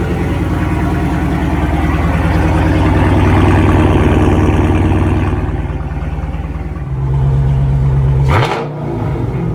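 A car engine revved while parked. The engine note swells to a peak a few seconds in, eases back, then rises again before a sudden sharp crack and drop about eight seconds in.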